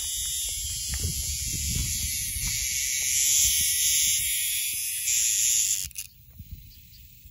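Cicada's harsh distress buzz while a cicada killer wasp attacks it, loud and steady, with a low rumble underneath; the buzz cuts off suddenly about six seconds in.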